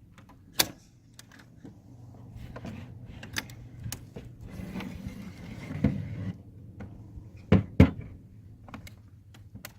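Scattered sharp knocks and clicks of equipment being handled over a low background rumble, with two louder knocks close together near the end.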